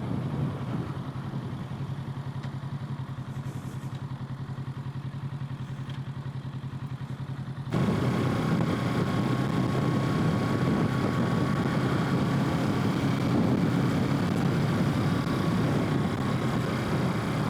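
Kawasaki Z650's parallel-twin engine running at a steady idle with an even low pulse. About eight seconds in, the sound abruptly becomes louder and noisier, with a faint steady whine above it.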